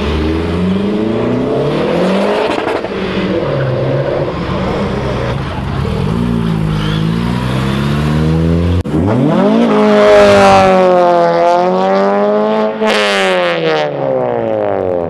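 Car engines accelerating away one after another, revs rising and falling through the gears. About nine seconds in, a louder engine takes over, revving up, easing off, then climbing steeply near the end.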